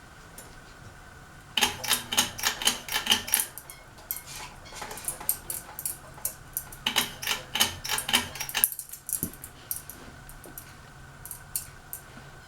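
Running ceiling fan with a steady hum and a thin whine, broken by two spells of rapid, irregular clicking, each about two seconds long. After the second spell the whine drops out for a moment and then returns.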